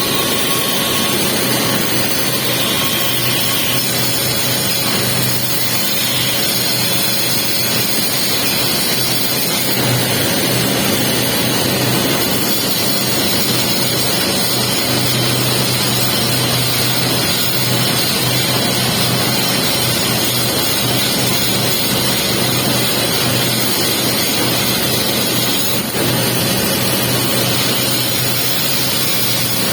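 Welding arc running steadily on pipe while the capping pass is laid, a continuous crackling hiss over a steady low hum.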